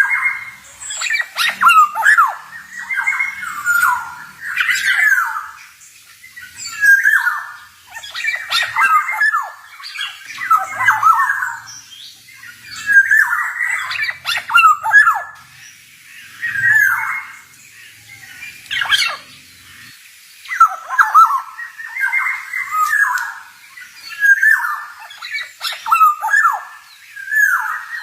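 Male black-naped oriole (kepodang) singing: short slurred, whistled phrases about a second long, repeated roughly every two seconds.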